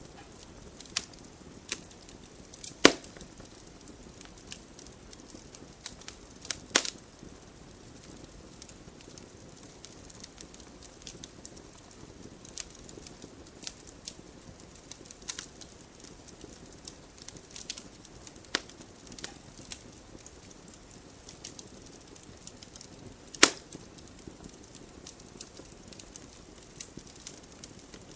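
Wood fire burning in a fireplace: a steady low hiss with frequent small crackles, and three loud sharp pops of burning logs, the loudest about three seconds in and again near 23 seconds.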